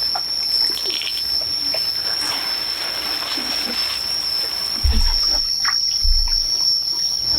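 Pigs grunting and moving about, with water splashing, over a steady high-pitched whine; two low thumps come about five and six seconds in.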